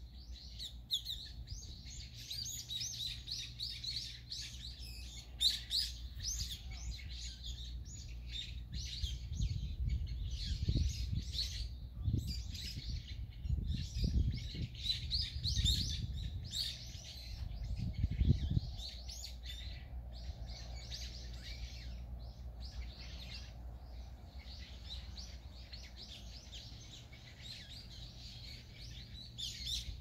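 Many small birds chirping and twittering in quick, overlapping short calls, thinning out near the end. Low rumbling noise comes and goes underneath, strongest in bursts about a third to two-thirds of the way through.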